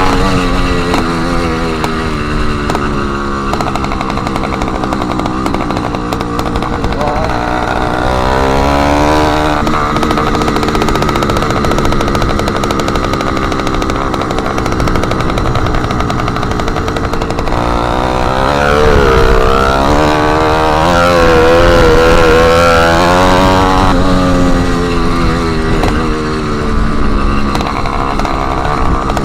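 Motorized bicycle's small engine running with its exhaust missing the end tip, its pitch rising and falling as the throttle is opened and eased off under way.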